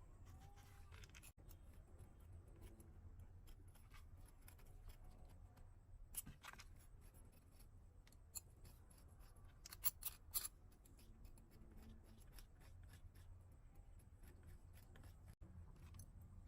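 Faint snips and clicks of a hoof-trimming tool cutting cow hoof horn over a low hum. There is a sharp click about six seconds in and a quick cluster of snips about ten seconds in.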